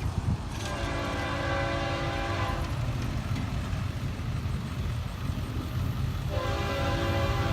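Florida East Coast Railway freight locomotive's air horn sounding a chord in two long blasts, the second starting near the end, over a steady low rumble from the train.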